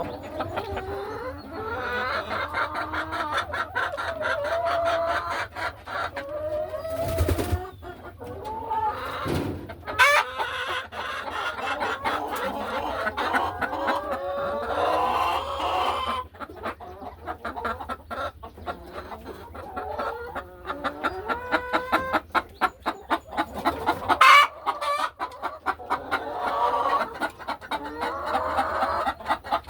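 Laying hens clucking and calling in a hen house, many at once, with long drawn-out calls over rapid runs of short clucks.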